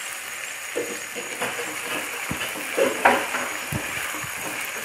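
Ginger-garlic paste sizzling in hot oil in a kadhai while a spatula stirs it, with several short scrapes against the pan, the loudest about three seconds in.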